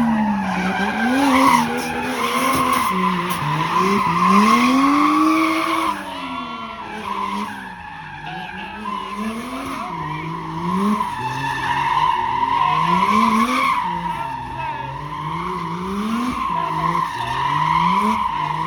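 Drift car's engine revving up and down over and over, about every couple of seconds, under a steady high tyre squeal as the car slides sideways.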